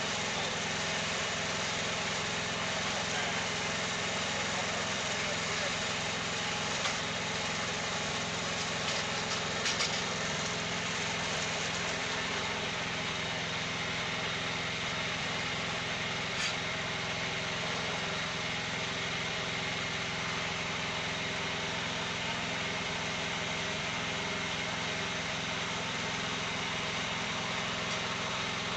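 Wood-Mizer portable sawmill running steadily, its engine holding an even note, with a few light knocks.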